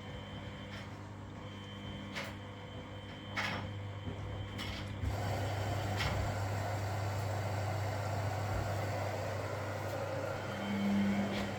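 Front-loading washing machine running partway through a 40°C wash, with a steady hum and light ticks; a rushing noise sets in about halfway through and a motor tone swells near the end.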